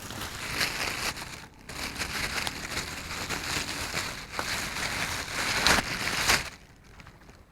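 Rustling, crinkling noise with scattered crackles, stopping abruptly about six and a half seconds in.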